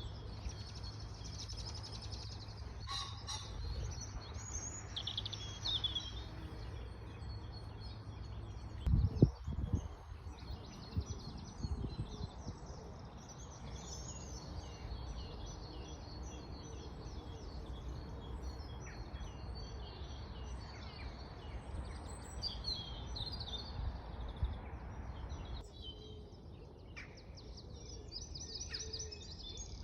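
Several birds singing and chirping in short repeated phrases over a steady low background rumble, with one loud low thump about nine seconds in.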